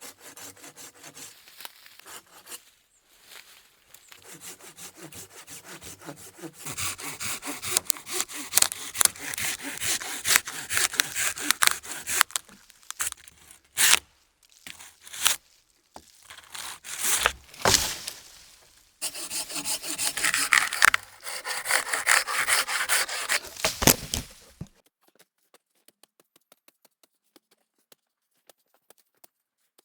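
Folding hand saw cutting through wood in quick back-and-forth strokes, getting louder after a few seconds. It pauses twice in the middle, where a few sharp knocks come through. The sawing stops a few seconds before the end, leaving only faint ticks.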